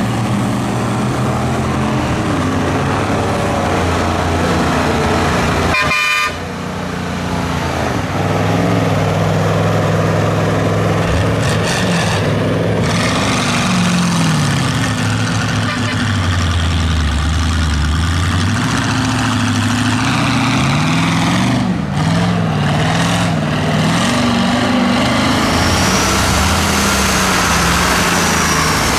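Mud-bogging truck engines revving hard, their pitch climbing and falling again and again. There is an abrupt break about six seconds in.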